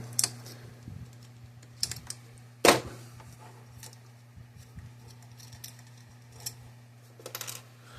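Scattered light clicks and taps of small parts and hand tools being handled during a fence charger teardown, the sharpest about two and a half seconds in. A faint steady low hum runs underneath.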